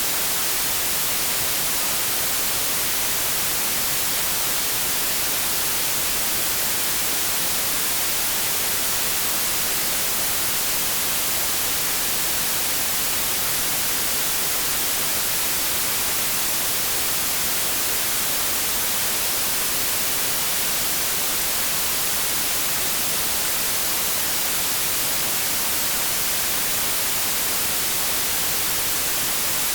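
Continuous synthetic white noise: a steady, even hiss with most of its weight in the high end, unchanging throughout.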